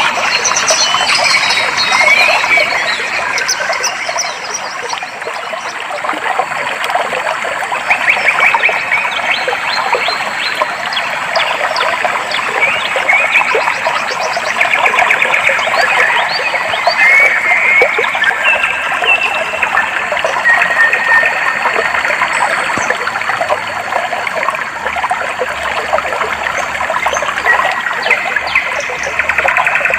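Clear stream water flowing and trickling steadily, with short trilling animal calls repeating over it every few seconds.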